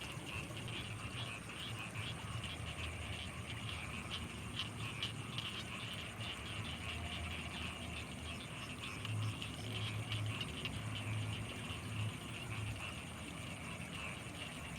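Night chorus of frogs calling in rice fields: a dense, steady run of rapid high clicking calls, with low pulsing croaks that grow stronger in the second half.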